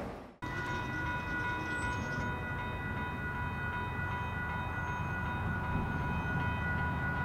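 A train rolling by with a steady low rumble, a steady high-pitched tone held over it throughout. The sound starts after a brief dropout just under half a second in.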